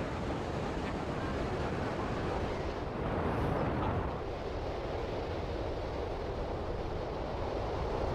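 Ocean surf and wind, a steady rushing noise.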